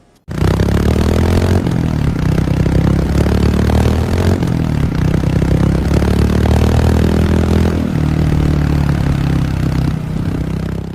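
Royal Enfield Hunter 350's 349 cc air-cooled single-cylinder engine running: a steady exhaust note whose pitch rises and falls a few times with the throttle, cutting off suddenly at the end.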